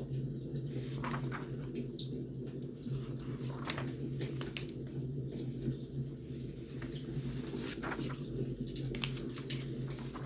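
Wood fire burning, with irregular crackles and pops over a steady low rumble.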